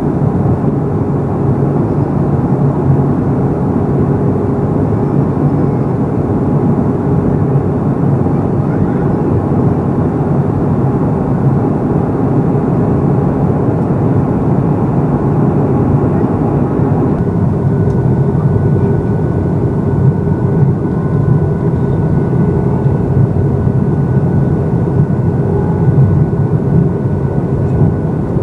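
Steady cabin noise inside a Boeing 737-800 in flight: its CFM56-7B jet engines and the rush of airflow past the fuselage, heard from a window seat. About 17 seconds in, the noise shifts slightly and a faint steady whine appears.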